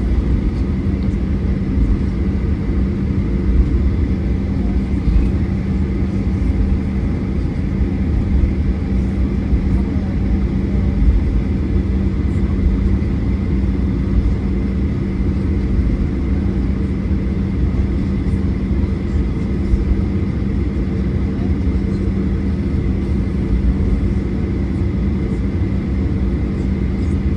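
Steady cabin noise inside a Boeing 737-800 airliner: the constant rumble and hum of its CFM56 engines and airflow, heard from a seat near the front, without rising or falling.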